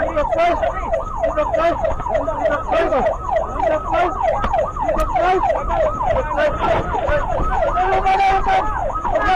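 Police motorcycle siren on a rapid yelp, rising and falling about three times a second, with a brief steady held tone near the end before the yelp returns.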